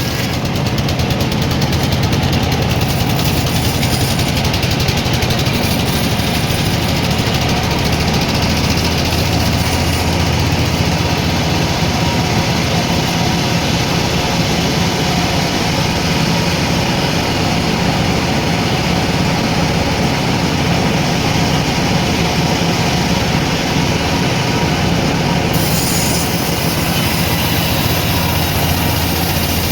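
Sawmill machinery running steadily, a loud low engine-like drone.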